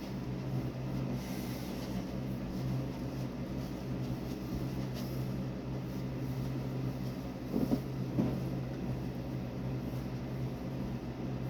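A steady low hum, with two short knocks about two-thirds of the way through.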